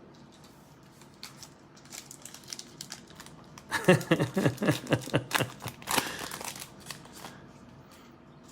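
A trading card pack wrapper crinkling and tearing open, with cards shuffling in the hands. Scattered light crackles build to a louder run of tearing and crinkling about four to six seconds in.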